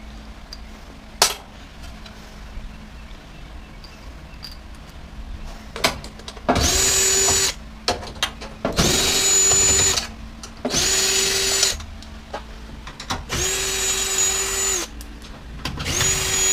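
Power drill fitted with a socket, spinning out screws from a washer/dryer's metal panels in five short steady-pitched runs of about a second each, starting about halfway through. A sharp click comes about a second in.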